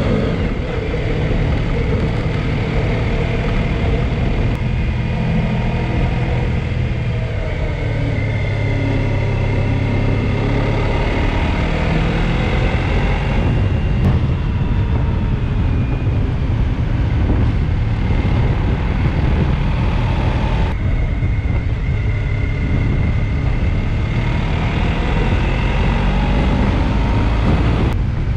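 Honda ST1300 Pan European's V4 engine running under way, its pitch rising and falling with throttle and gear changes. The sound changes abruptly twice, about halfway through and again about two-thirds of the way in.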